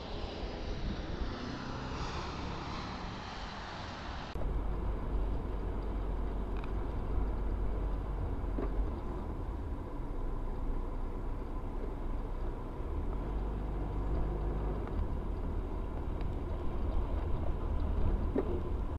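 Steady road and engine rumble of a moving car picked up by a dashcam, with the recording changing abruptly about four seconds in as one clip gives way to another.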